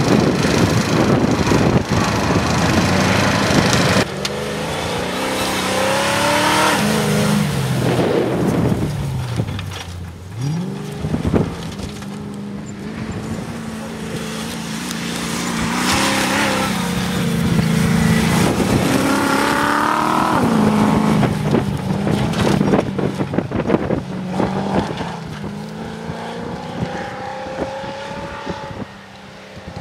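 Engine of a Land Rover-based competition off-road car revving up and dropping back again and again as it is driven hard over rough ground. For the first few seconds a loud rushing noise covers it, cutting off suddenly about four seconds in.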